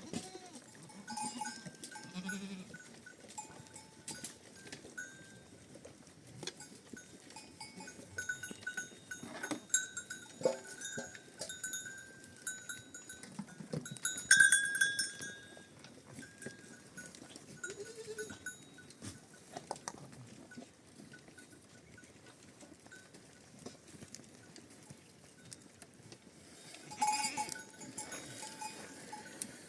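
A flock of sheep and goats with bells clinking as the animals move, with a few bleats near the start and later on. The bells are loudest about halfway through.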